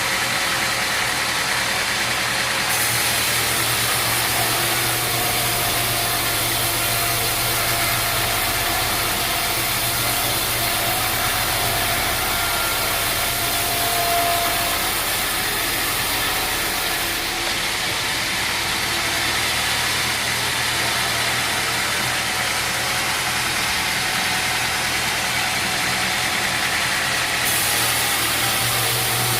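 Sawmill machinery running steadily: a constant engine-like hum under a wide, even noise, with no sharp breaks.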